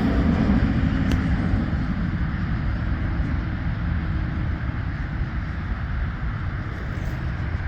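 Steady rumble and hiss of passing road traffic, slowly easing off.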